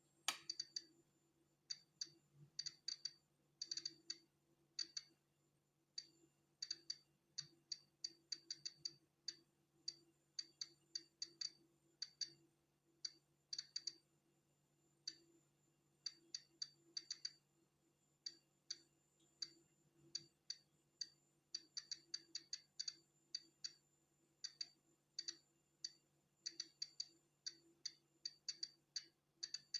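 Polon EKO-C digital Geiger counter clicking at irregular, random intervals, sometimes several clicks close together, each click a detected count of natural background radiation. A faint steady hum sits underneath.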